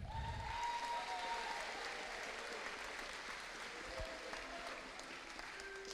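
An audience applauding, dying away gradually.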